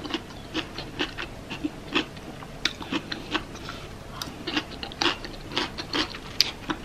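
A person chewing a mouthful of taco rice bowl close to the microphone: irregular soft crunches and mouth clicks, a few a second.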